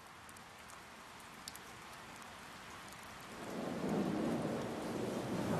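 Rain falling steadily with a few sharp drop ticks, slowly growing louder; about three and a half seconds in a low rolling rumble of thunder swells up and carries on.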